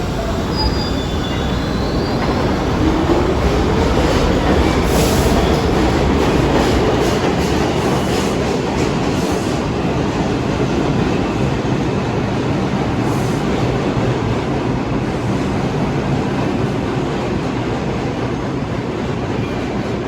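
New York City subway train running along the track, a steady loud rumble of wheels on rail, with a faint rising whine a few seconds in.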